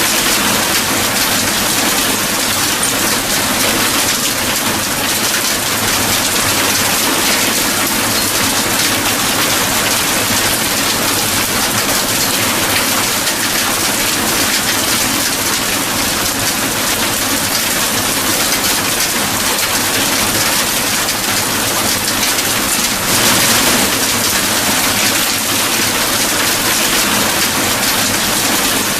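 Steady rain falling, an even, dense hiss with no breaks or swells.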